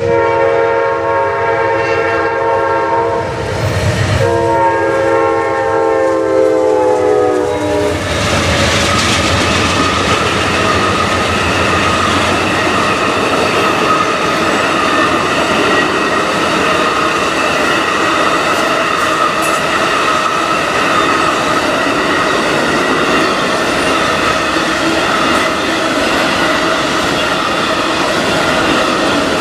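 Train's multi-tone air horn sounding in two blasts, a short one and then a longer one whose pitch drops as the locomotive goes by. After that comes the steady rumble and wheel clatter of the train rolling past on the rails.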